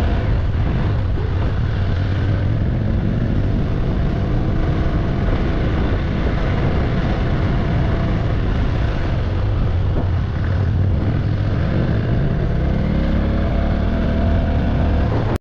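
Motorcycle running on the move, a steady deep engine-and-road rumble mixed with wind rushing over the microphone; it cuts off abruptly at the end.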